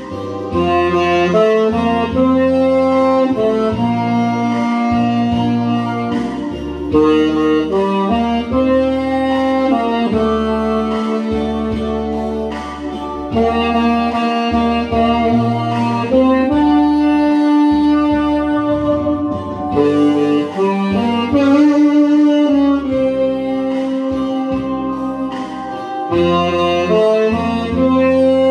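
Tenor saxophone playing a slow ballad melody in held, stepping notes over a backing track with bass.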